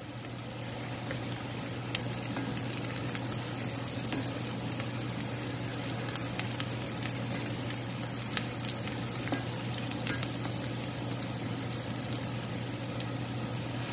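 Chopped onion and green chili sizzling in melted butter in a pan, a steady frying hiss dotted with small crackles and pops, while a wooden spatula stirs them.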